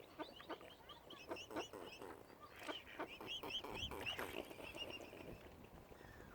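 Birds calling: a quick chatter of short, repeated calls with runs of high chirps over them.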